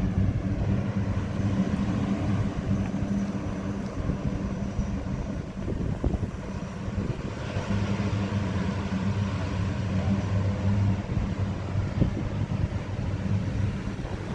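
Steady low engine hum that goes on with little change, over a haze of outdoor noise.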